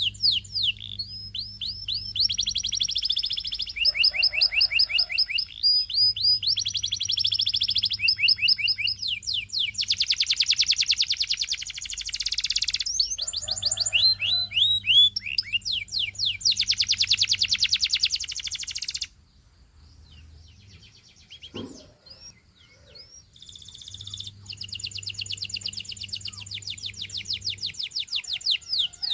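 Domestic canary singing: long phrases of rapid repeated notes and trills, each phrase switching to a new note type. The song breaks off for a few seconds about two-thirds of the way through, then starts again.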